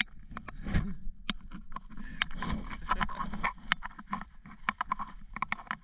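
Snow crunching underfoot: a dense, irregular run of crackles and crunches as feet tread through fresh snow.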